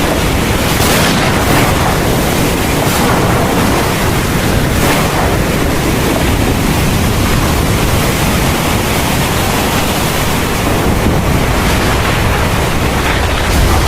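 Heavy thunderstorm rain pouring steadily, with a deep low rumble underneath.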